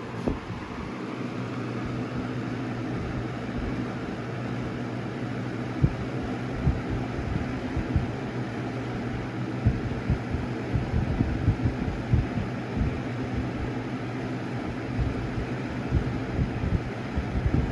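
1995 Windmere box fan running steadily on medium speed: an even motor hum under the rush of air, with irregular low buffets of the airflow hitting the microphone. A click sounds at the very start.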